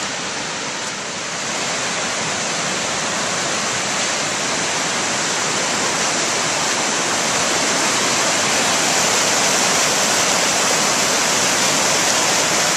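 Whitewater of the Colorado River's Granite Rapids rushing steadily, growing a little louder about a second and a half in.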